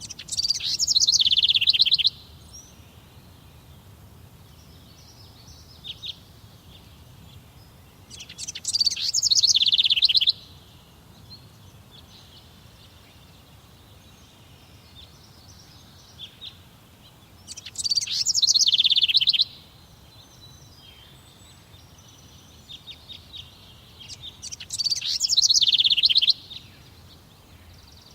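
A songbird singing one song phrase four times, each lasting about two seconds and repeating roughly every eight seconds. Each phrase starts high and drops into a fast lower trill. Fainter chirps come in between.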